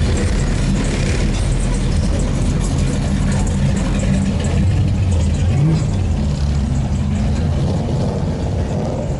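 Car engine running, with people talking.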